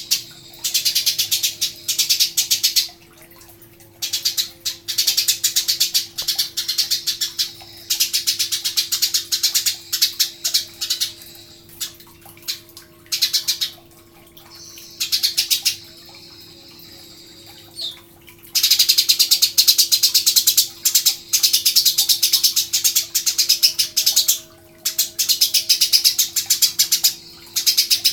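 Eurasian tree sparrows chirping in rapid, dense runs of a few seconds each, broken by short pauses, with a steady low hum underneath.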